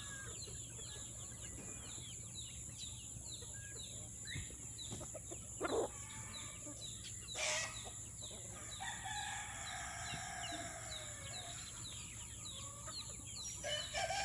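Chickens calling: a steady run of quick, high peeps with clucks mixed in, and a longer held call in the second half, a rooster crowing.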